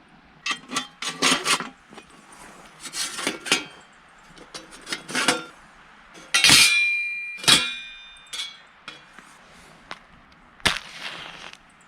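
Metal gear being handled: irregular clinks and knocks, with two sharp, ringing metal clanks about halfway through.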